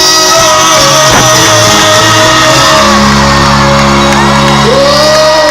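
Live cuarteto band playing, with the crowd shouting and whooping over the music; a strong held bass note comes in about halfway through.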